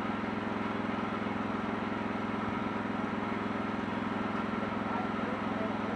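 Engine of a Wood-Mizer portable sawmill running steadily at a constant speed, a pulsing mechanical drone.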